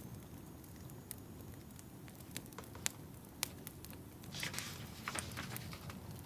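Wood fire crackling, with scattered sharp pops over a low rumble and a short hissing flare about four seconds in.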